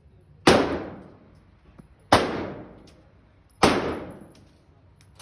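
Three shotgun shots about a second and a half apart, each a sharp blast that rings out briefly.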